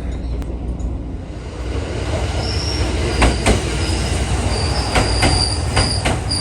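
Train rolling with a low rumble, its wheels squealing on the rail in high tones that come and go from about halfway through, and several sharp clicks of wheels over rail joints.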